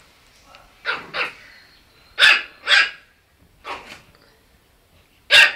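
Chihuahua puppy barking: about six short, sharp yaps, mostly in quick pairs, with pauses between.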